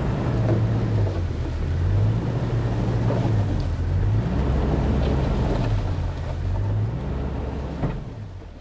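Vehicle engine running, with its low note swelling up and down every couple of seconds, then fading out near the end.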